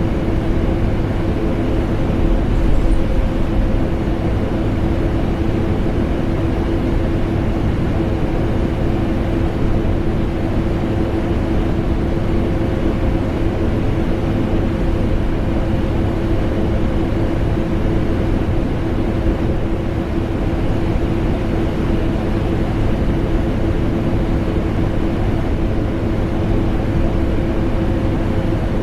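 A vacuum cleaner and an air conditioner running continuously together: an even rushing drone with a steady hum held in it, never changing.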